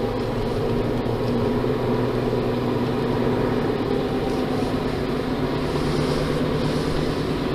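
Steady car engine and road noise heard from inside the cabin while driving at an even speed.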